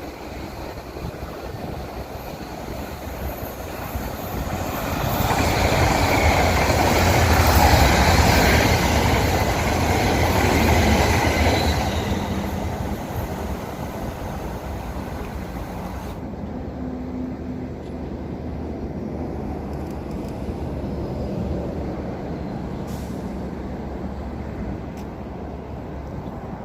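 A train passing by: its noise swells, is loudest about a quarter of the way in, and fades away again after a few seconds, leaving a steady lower rumble.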